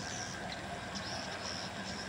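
Small birds chirping in short, high calls over a steady low hum of engine or traffic noise.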